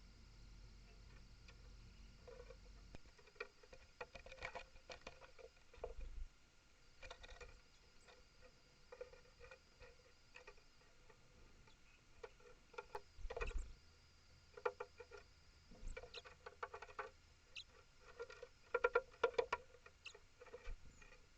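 A small animal feeding at a bird table, scratching and tapping at frozen food on the feed tray: irregular bursts of rapid clicks and scrabbling, loudest in a run near the end.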